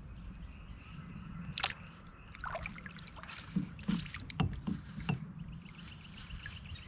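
Wind rumbling on the microphone and water lapping, with several sharp knocks and clicks from handling the fishing gear between about one and five seconds in, and a faint rapid ticking near the end.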